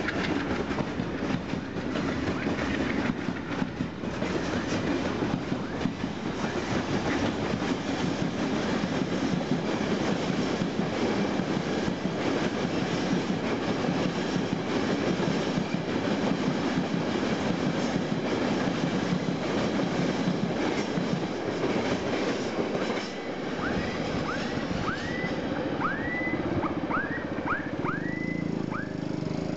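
Freight train wagons, coaches and tank wagons, rolling past close by with the clatter of wheels on the track. About 23 seconds in the noise drops as the last wagons pass, and a run of short rising chirps follows.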